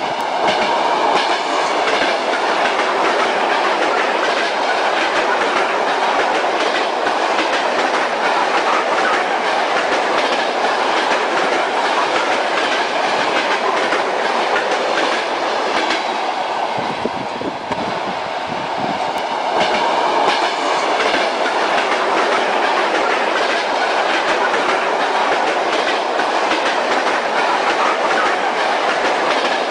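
Train running along the track: the wheels clack over the rail joints above a steady rolling rumble. The level dips briefly about halfway through, then comes back.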